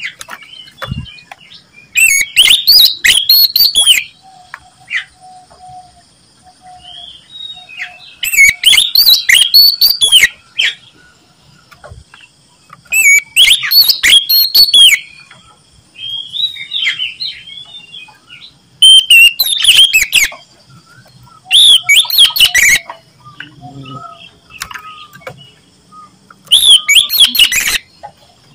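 Oriental magpie-robin (kacer) singing loudly in vigorous, high, varied warbling phrases. Six loud phrases of one to two seconds come every few seconds, with softer notes in between. This is the kind of full song played as a lure to set other magpie-robins singing.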